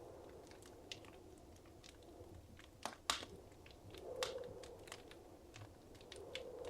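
Wood fire crackling in a fireplace: irregular sharp pops and snaps over a soft steady rush of flame, with two louder pops about three seconds in.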